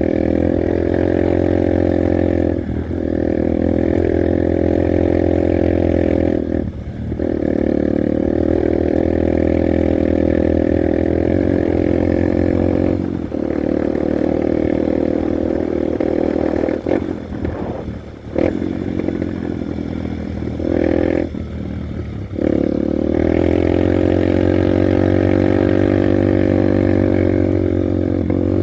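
Honda Bros 150 motorcycle's single-cylinder four-stroke engine running steadily under way. The throttle is briefly closed about six times, around 3, 7, 13, 17–18 and 21–22 seconds in, with the engine note dropping and then picking up again each time.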